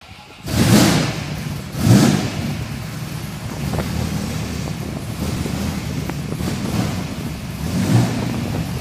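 De Tomaso Pantera's Ford 351 Cleveland V8, built to about 800 hp, comes to life about half a second in, is blipped twice, then settles to a steady idle with one more blip near the end.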